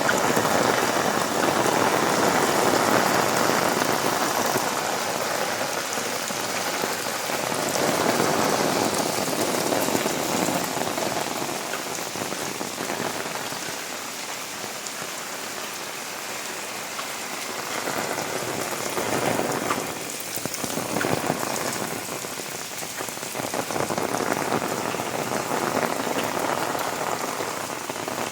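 Heavy rain falling, a steady hiss of drops that swells and eases in waves.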